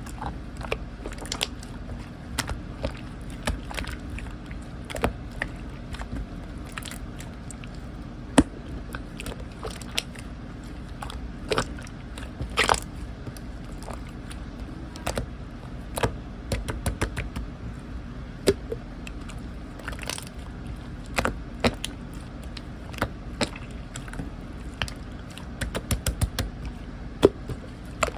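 Slime being squeezed and stretched by hand, giving irregular sharp clicks and pops of trapped air, some coming in quick clusters.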